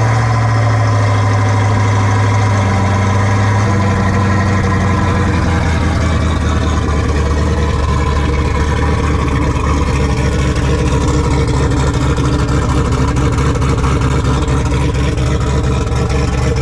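Turbocharged Chevy Camaro engine idling just after a cold start: a fast idle that settles to a lower, steady idle about four to five seconds in.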